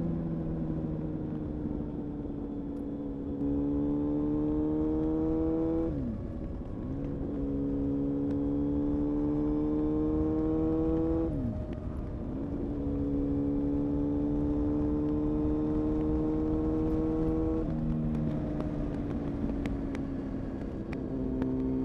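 Honda CBR-929RR Fireblade's inline-four engine through an Erion full racing exhaust, pulling steadily under moderate throttle with revs slowly rising. About six, eleven and eighteen seconds in the revs dip briefly and pick up again, as at gear changes, the kind of gentle riding used to break in a new clutch.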